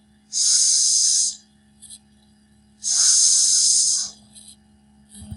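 A man demonstrating the voiceless 's' consonant: two hisses of air forced through closed teeth with no voice, each lasting about a second.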